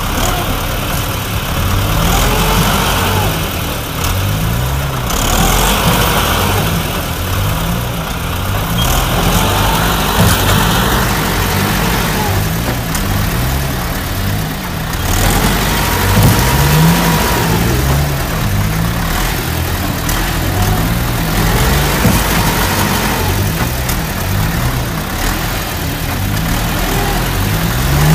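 Motor vehicle engines running and revving up and down in repeated surges, a rise and fall in pitch every two or three seconds.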